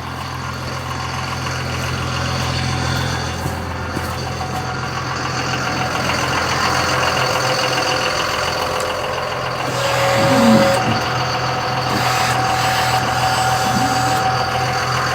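Vehicle engine idling steadily with a low hum, joined about ten seconds in by a steady higher-pitched whine.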